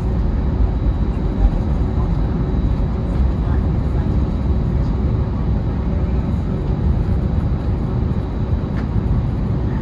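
Steady low rumble of an Airbus A320neo-family jet heard from inside the passenger cabin, with a faint steady hum running through it. There is no spool-up or change in level, so the engines are at low power.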